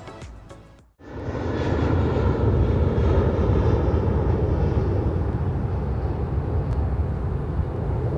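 Jet aircraft engines at takeoff power: a loud, steady, deep rush of engine noise that cuts in suddenly about a second in, after a moment of fading music.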